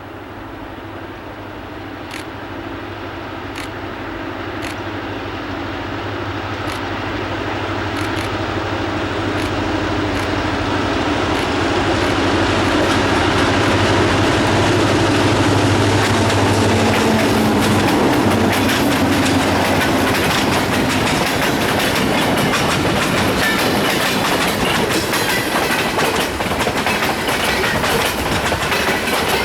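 A diesel-hauled freight train passing: the locomotive's engine grows steadily louder as it approaches and goes by, then the freight cars roll past with a continuous clatter of wheels over the rail joints.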